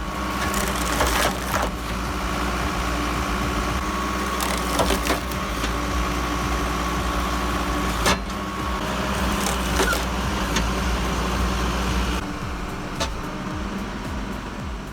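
Firewood processor with a hydraulic cutter and splitter running steadily, its motor humming while logs crack and splinter as they are cut and split, with several sharp cracks.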